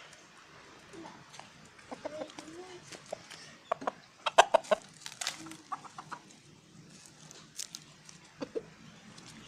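Rooster clucking to call hens: short clucks scattered through, with a quick run of loud clucks about four seconds in.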